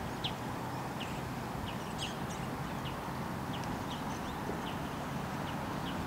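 Many short, high ticks and chirps from birds, a few each second at uneven intervals, over a steady background hiss.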